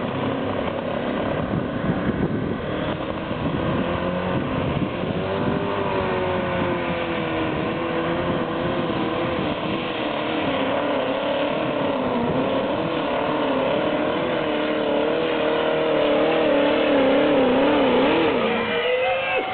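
Pulling tractor's engine running at full power as it hauls the weight sled, its pitch wavering up and down. It gets a little louder in the last few seconds, then the pitch drops sharply just before the end.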